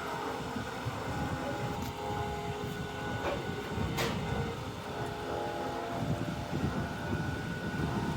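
Steady low rumble of ship's machinery during cargo unloading, with a few sharp metallic knocks, the strongest about four seconds in.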